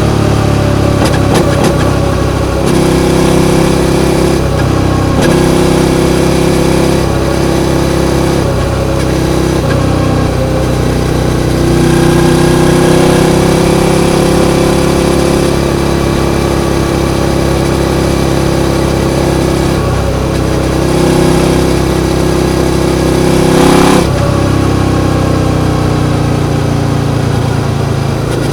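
Suzuki SV650's 645 cc V-twin engine running under changing throttle. Its note steps up and down in pitch several times, with a sharp change about 24 seconds in.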